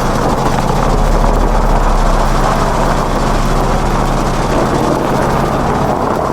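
A steady engine drone with a dense rushing noise over it, holding level throughout.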